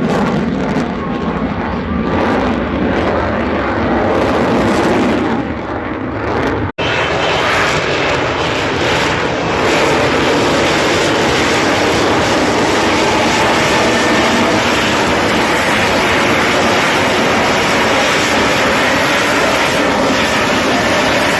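Fixed-wing aircraft engine noise, loud and steady, broken by one sudden momentary dropout about seven seconds in, after which the sound is brighter.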